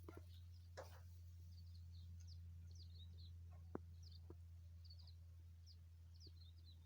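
Faint birdsong: short, high chirps repeated every half second or so over a steady low hum, with a few sharp clicks, the loudest of them near the middle.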